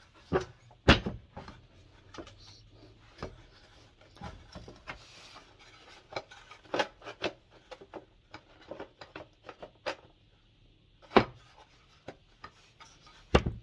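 Hand tools and parts clicking, knocking and scraping while a diesel heater is being taken apart, with sharp knocks about a second in and twice near the end.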